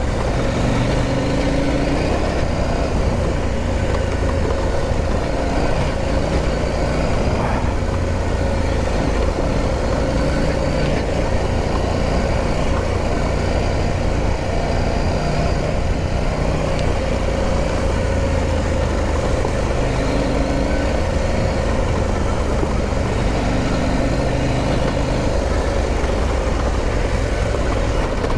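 Motorcycle engine running steadily under way on a rough off-road lane, a continuous low drone without pauses.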